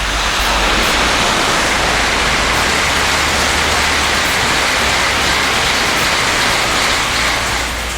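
Tokaido Shinkansen train passing through the station at high speed: a loud, steady rush of air and wheel noise that swells in at the start and fades away near the end.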